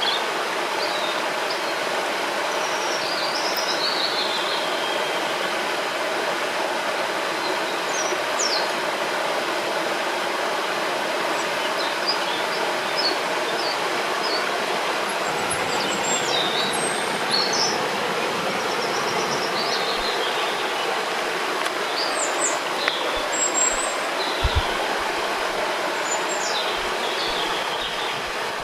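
Steady rushing of flowing river water, with small birds calling above it in short chirps and trills scattered throughout.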